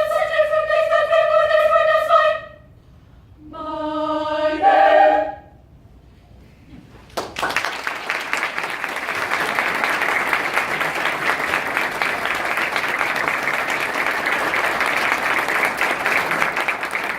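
High school choir holding a sung chord that cuts off about two seconds in, then a short final sung phrase that steps upward in pitch. After a brief silence, audience applause breaks out suddenly and keeps going steadily.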